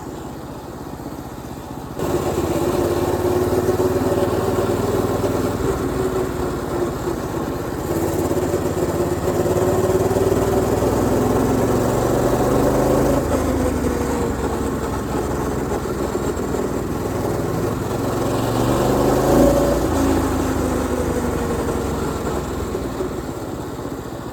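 Predator 212cc single-cylinder four-stroke engine on a mini bike, its governor bypassed, running. About two seconds in it gets suddenly louder as the throttle opens, and its pitch rises and falls through the ride.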